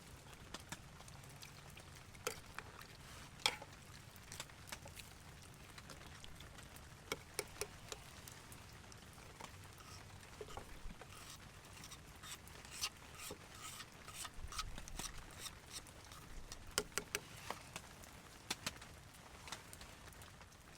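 Rain pattering, irregular scattered drops ticking over a faint steady hiss.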